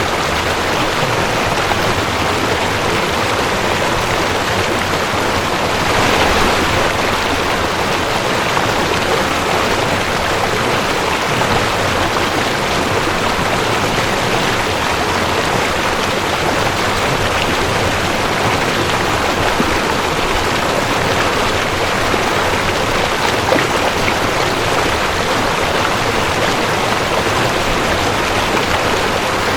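Mountain stream rushing over rocks: a steady, even rush of water, swelling slightly about six seconds in.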